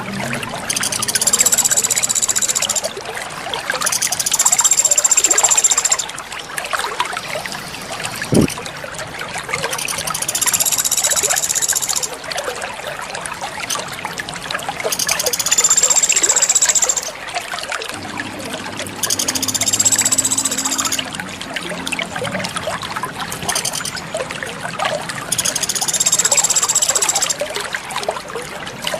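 Water trickling steadily, with a high, shrill bird call of about two seconds repeating every three to four seconds.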